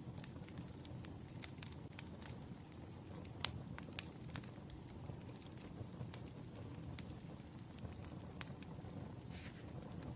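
Wood fire crackling: a steady low rumble of burning logs with irregular sharp pops and snaps, the loudest a little over three seconds in.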